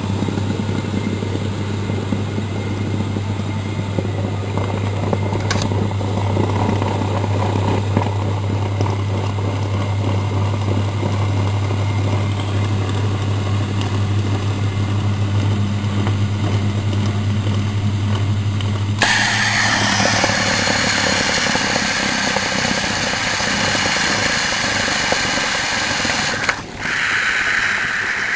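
Miele Professional WS 5105-C washing machine running with a steady low motor hum. About two-thirds of the way through, the hum stops and a loud, even rushing hiss takes over.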